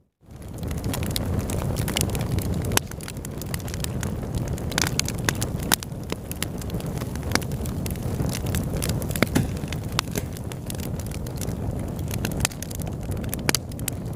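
Fireplace wood fire burning: a steady low rumble of flames with frequent sharp crackles and pops. It fades in from a brief silence at the very start.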